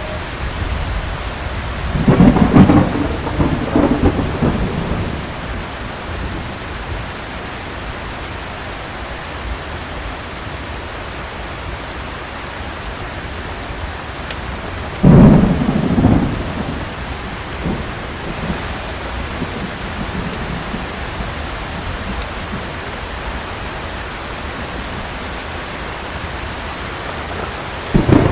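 Heavy rain falling steadily through a thunderstorm. Thunder rumbles for a couple of seconds about two seconds in, and a sharper thunderclap comes about fifteen seconds in. Another peal starts just as it ends.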